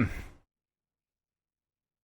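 Faint room tone that cuts off abruptly about half a second in, leaving complete digital silence.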